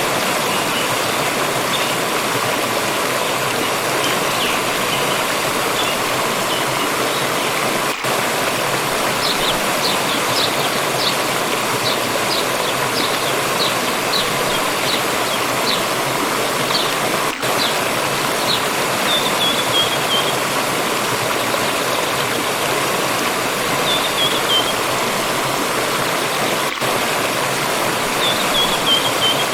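Forest stream running steadily, with small birds chirping above the water: a run of quick repeated chirps about a third of the way in, then short falling trills a few times toward the end.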